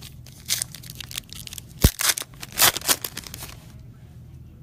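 Trading card pack wrappers and cards being handled: a run of short crinkling and tearing rustles, with one sharp tap a little before two seconds in, then quieter handling.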